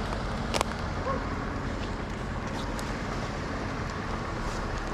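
An engine running steadily at low speed, with a single sharp click about half a second in.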